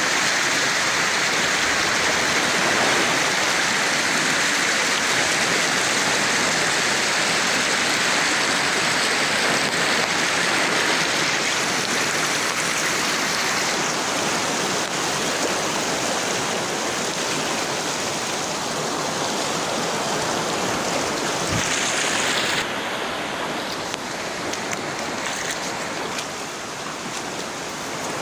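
Steady rush of flowing water, turning a little quieter near the end.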